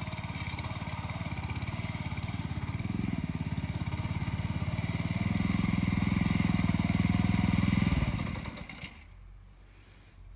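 Harbor Freight Predator engine on a Troy-Bilt Pony rototiller running with rapid, even firing pulses, growing louder from about halfway, then dying away about eight seconds in.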